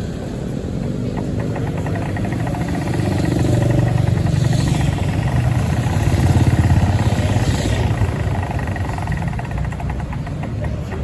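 A motor vehicle engine running steadily, growing louder about halfway through and then easing off.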